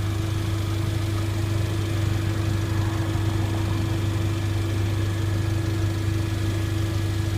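Car engine idling steadily, a low even hum, plausibly the Mercedes-AMG GLA 45's 2.0-litre turbocharged four-cylinder.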